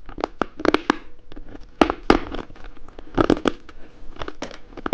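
Close crinkling and crackling of a plastic candy wrapper being handled, in short irregular bursts about once a second.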